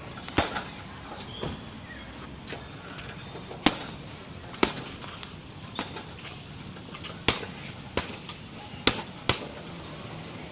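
Strikes landing one after another on a heavy punching bag: about a dozen sharp, loud hits at an uneven pace, some coming in quick pairs.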